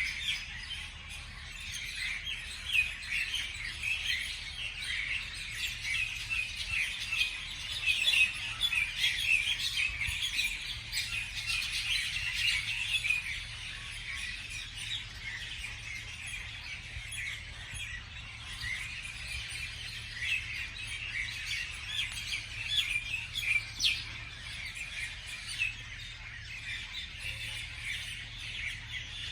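A chorus of many small birds chirping at once, short overlapping chirps and twitters with no pause, over a faint steady low hum.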